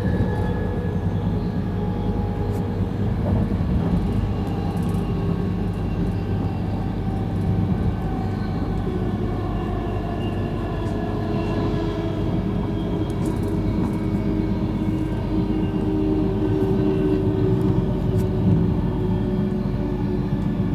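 Interior running noise of a Virgin Trains Class 390 Pendolino electric train at speed: a steady rumble of wheels on rail, with steady humming tones over it and a few faint clicks.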